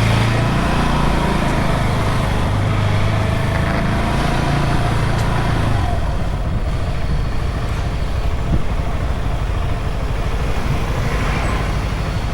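Wuyang-Honda 190 single-cylinder motorcycle running under way. Its steady engine note is clear for about the first six seconds, then is mostly lost in a rougher rushing noise.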